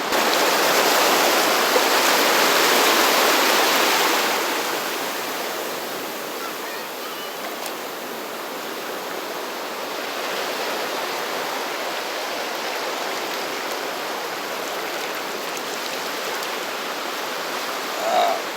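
Sea surf washing over a rocky shore: a louder wash for the first four seconds, easing to a steady rush.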